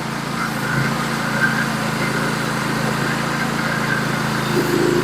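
Norwood HD36v2 portable sawmill's engine running steadily with an even hum.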